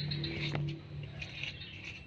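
Lovebird giving short, high chirps now and then, with a few sharp ticks and a low hum that fades about halfway through.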